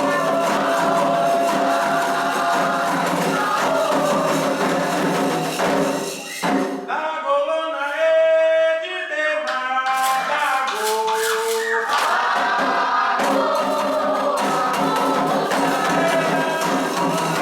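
Candomblé chant for Xangô: a group singing with shaken and struck percussion. About six seconds in the percussion drops away and the voices sing on almost alone, then the full group and percussion come back in around thirteen seconds.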